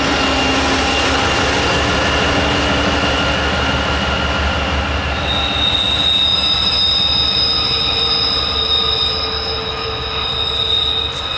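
Train rolling past with its steel wheels squealing against the rail, several steady high-pitched squeal tones over continuous rolling noise, one shrill tone re-entering about five seconds in.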